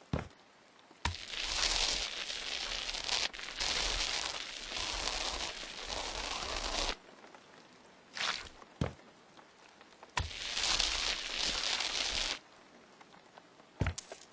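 Rough rustling, tearing noise in two long stretches, the first about six seconds and the second about two, with a few sharp clicks and short scrapes between them.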